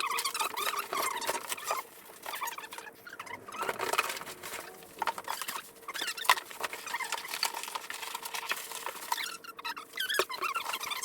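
Bubble wrap and cardboard packing being handled and stuffed into a box, giving irregular crinkling and rustling with brief quieter pauses.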